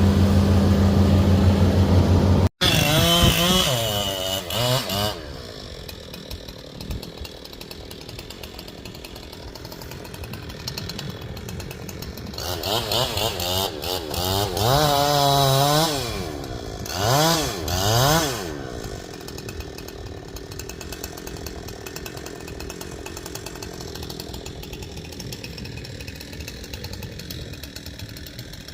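Chainsaw being revved up and down in several bursts, dropping back to a lower idle between them, as a pine is being cut for felling. It opens with a few seconds of an engine running steadily at high revs.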